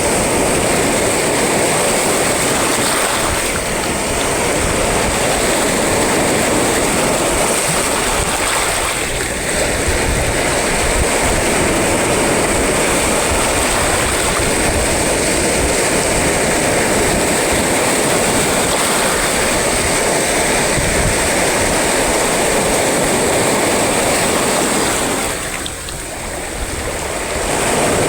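Sea waves and surf breaking and washing in a steady, continuous rush with a deep rumble underneath, easing briefly a couple of seconds before the end.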